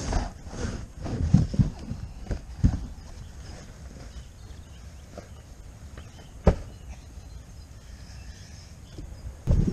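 Irregular footsteps and thuds outdoors, bunched in the first few seconds, then a quieter stretch with a single sharp knock about six seconds in, and louder handling or movement starting near the end.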